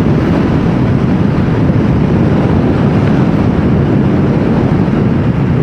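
Yamaha MT-07 parallel-twin motorcycle at a steady, moderate cruise, its engine mixed with heavy, steady wind rush on the microphone.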